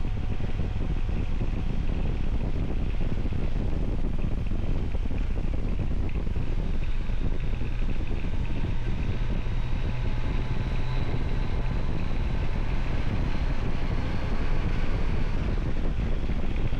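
Motorcycle running steadily at road speed, with a constant low engine drone under heavy wind buffeting on the microphone.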